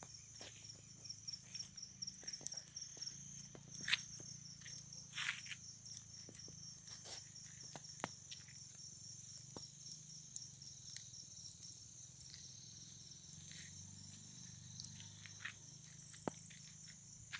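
Insects trilling steadily in a high pitch, with scattered sharp pops and crackles from a wood bonfire, the loudest about four and five seconds in.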